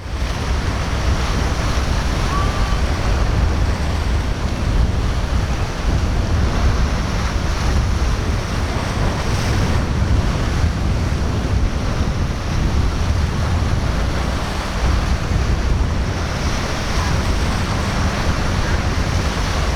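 Wind rumbling steadily on the microphone over the rush of breaking waves.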